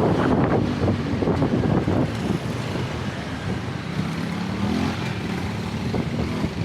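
Road traffic with wind buffeting the microphone; a motor vehicle's engine rises in pitch about four seconds in.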